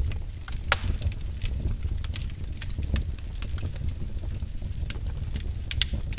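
Wood fire in a fireplace crackling, with irregular sharp pops over a steady low rumble; one loud pop about a second in and another near the end.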